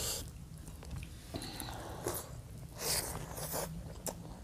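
Eating sounds close to the microphone: irregular wet chewing and mouth clicks, with fingers squishing rice and curry on a plate. The loudest burst comes about three seconds in.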